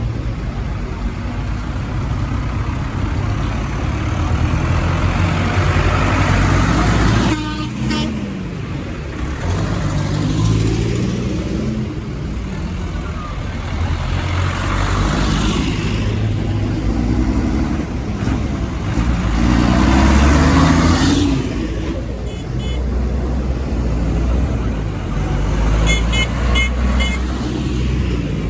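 Tractors driving past one after another, their engines swelling and fading as each goes by. A horn toots about eight seconds in, and there are several short horn toots near the end.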